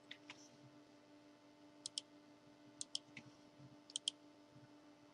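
Faint sharp clicks, mostly in close pairs, coming three times in a near-silent pause, over a faint steady low hum.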